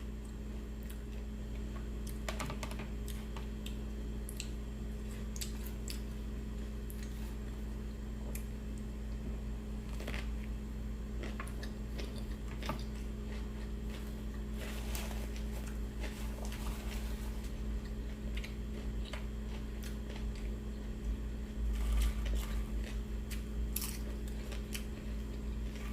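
Close-miked chewing of a Subway cold cut trio sandwich with lettuce and pickles: scattered soft crunches and clicks, a little louder about three-quarters of the way through, over a steady low electrical hum.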